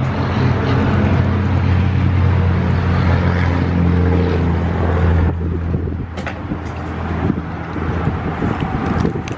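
Motor vehicle running, with a steady low engine and road hum. A little over halfway through the sound drops and thins out, and a few faint clicks follow.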